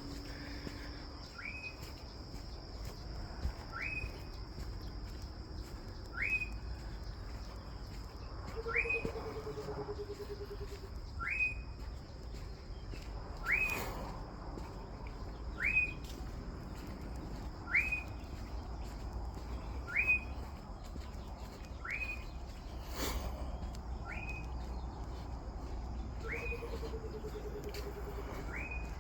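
A bird repeating one short, sharply rising whistle about every two seconds, over a steady high insect drone. A lower, falling, rattling trill comes twice.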